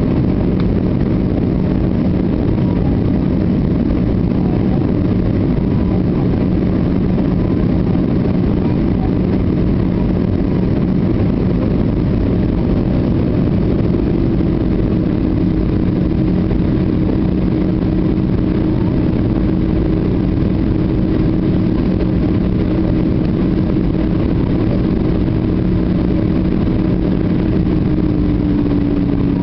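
Airbus A320 cabin noise in flight on approach: a steady rush of airflow and engine rumble with a constant low hum. A higher hum joins about halfway through and dips slightly in pitch near the end.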